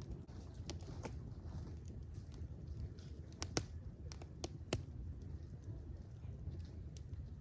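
Wood fire burning with a steady low rumble and scattered crackles, a few louder pops around the middle.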